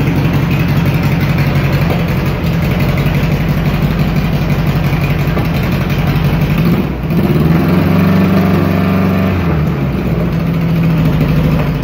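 Air-cooled 1915cc VW flat-four with a single Weber 44 carburettor and Empi exhaust idling on its first start-up. About seven seconds in the engine stumbles briefly, then revs up for about two seconds and settles back to idle.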